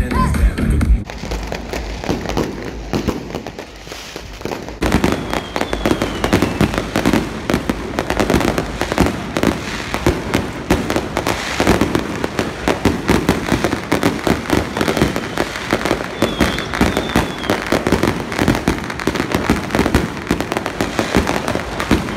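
Many fireworks going off together, a dense, continuous run of rapid pops, crackles and bangs that sets in about five seconds in after a quieter start.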